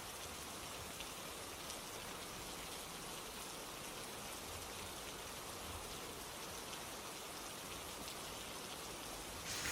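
Steady rain falling, with scattered drop ticks. A brief, louder swish comes near the end.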